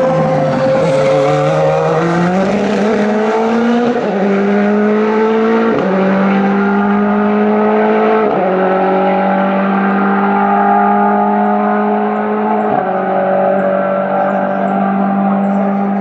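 Race car engine accelerating hard out of a slow corner, the pitch climbing through the gears with four sharp drops at upshifts, about 4, 6, 8 and 13 seconds in.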